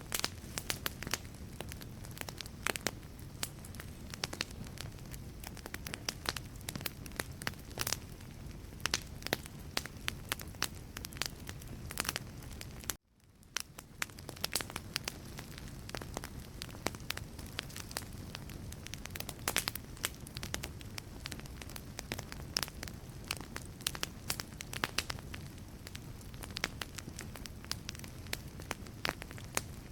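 Wood fire burning in a fireplace: logs crackling and popping in dense sharp snaps over a steady low rumble of flame. Near the middle the sound cuts out for a moment and fades back in.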